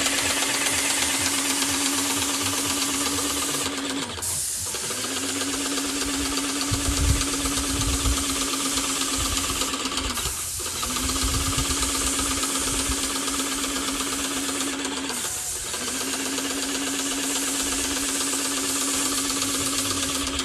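Airless paint sprayer spraying: a steady hiss of paint spray over the pump's hum, broken off briefly three times, about every five to six seconds.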